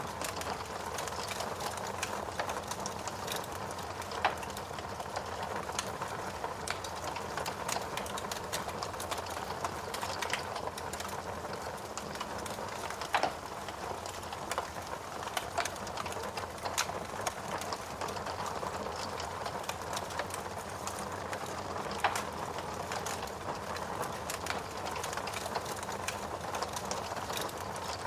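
Fireplace fire crackling with dense small irregular clicks, over a steady hiss of rain. Three louder sharp pops come roughly nine seconds apart.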